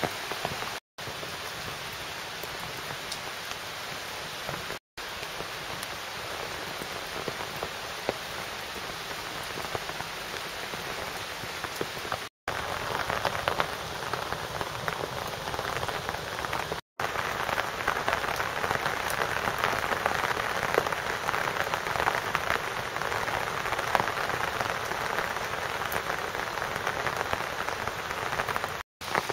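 Heavy rain pouring down steadily, with individual drops pattering close by; it grows louder about halfway through. The rain is broken by a few short gaps of silence.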